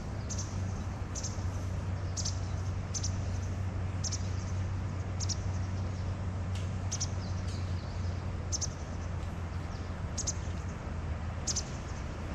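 Small birds chirping, with short high calls repeating roughly once a second, over a steady low hum.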